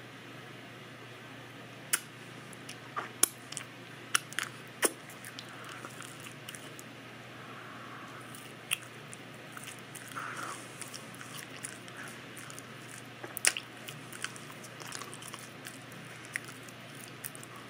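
Wet, open-mouth chewing of a soft carrot cake cupcake with cream cheese frosting: sticky smacks and sharp mouth clicks, thickest in the first few seconds and again briefly near the middle, over a faint steady hum.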